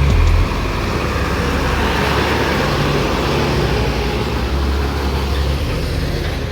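Road vehicle noise: a steady engine and tyre rumble that swells a couple of seconds in and eases off toward the end.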